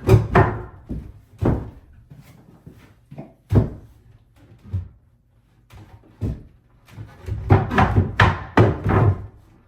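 Knocks and thuds as the vanity sink top is nudged and shifted into place on the cabinet: a few single knocks, then a quick run of them near the end.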